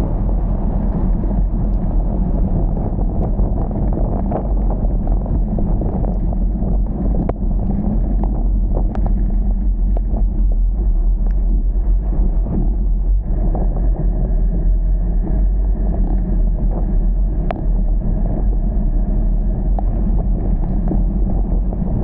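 Steady low rumble with scattered faint ticks.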